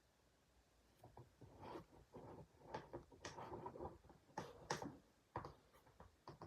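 Slime being squished and pressed by hand: a quiet, irregular string of squelches and small crackling pops, starting about a second in.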